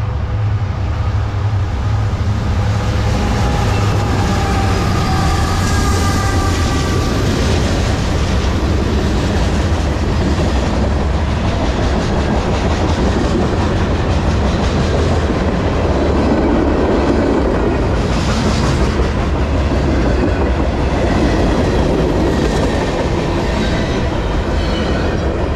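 Norfolk Southern diesel freight train passing close by: the locomotives' low rumble at first, then a long string of freight cars rolling past with a steady clickety-clack of steel wheels on the rails.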